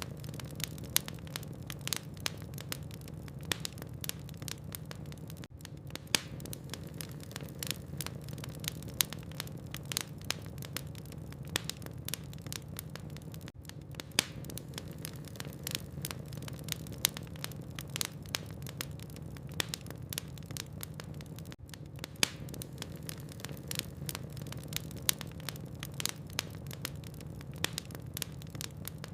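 Burning wood logs in a fireplace crackling, with frequent sharp pops and snaps over a steady low rumble.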